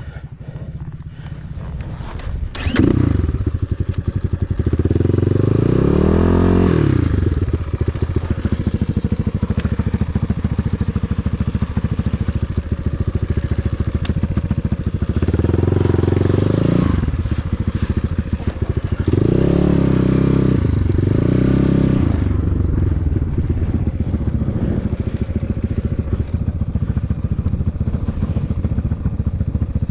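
Enduro motorcycle engine running and being revved, getting much louder about three seconds in. The revs rise and fall a few times: once at about five seconds, once at about sixteen seconds, and twice in quick succession at about twenty seconds.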